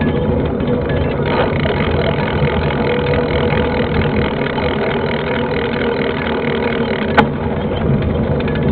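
Steady rumble of wind and rolling noise on a GoPro riding along with a mountain bike, with one sharp knock about seven seconds in.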